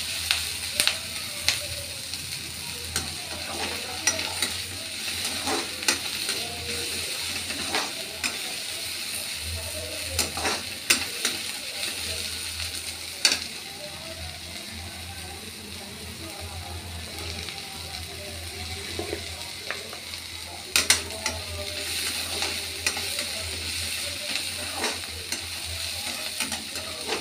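Sliced onions sizzling in oil in a kadhai as they brown, with a steady hiss. A perforated steel spoon stirs them, clicking and scraping against the pan at irregular moments.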